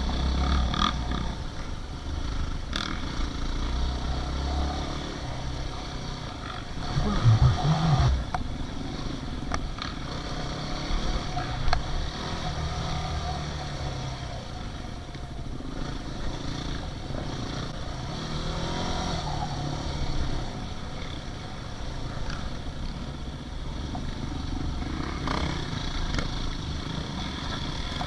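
Dirt bike engines running and revving, with a loud burst of throttle about seven seconds in and another rise in revs near the middle.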